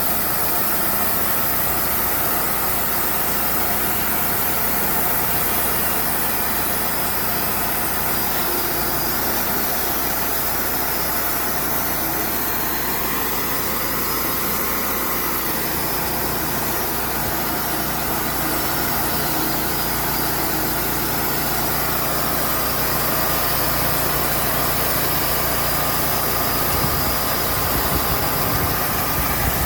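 Engine running steadily, its pitch rising and falling slightly about halfway through.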